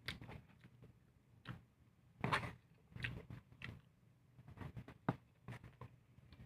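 A person eating: irregular chewing and mouth smacks with scattered small clicks, and one louder, longer burst a little over two seconds in.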